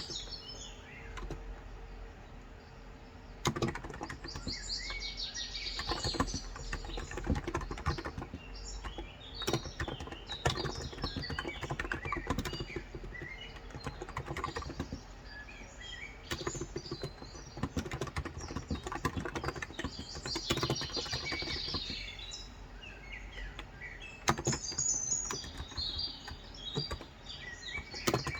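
Typing on a Cox Endeavour electrostatic capacitive (contactless) tenkeyless keyboard with 35 g switches: irregular runs of soft key clicks with short pauses. Birds chirp in several clusters in the background.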